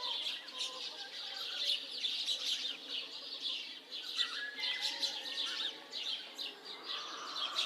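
Many small birds chirping at once in a dense, unbroken chorus of short, high calls. A few lower, held notes join in about four seconds in.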